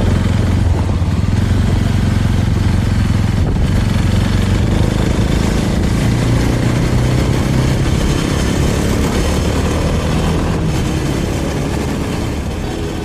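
Small motorcycle engine running steadily with wind and road noise; its pitch shifts around the middle and the sound eases slightly near the end.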